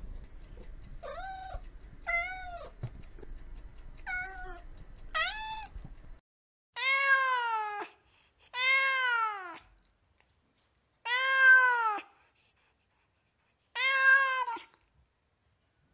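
Domestic cat meowing: four short meows over faint background noise, then, once that noise cuts off about six seconds in, four longer, louder meows about two seconds apart, each rising and falling in pitch.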